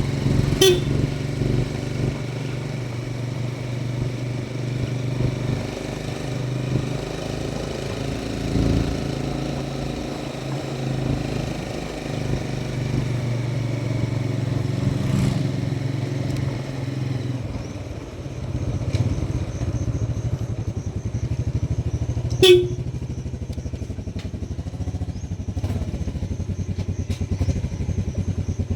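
Motorcycle engine running steadily while being ridden, then settling to a slower, evenly pulsing beat about two-thirds of the way through. Two sharp knocks stand out, one about a second in and a louder one later.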